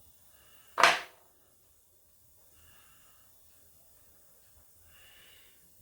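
A single short, sharp noise about a second in, from hand work on clock parts with a screwdriver. Otherwise quiet.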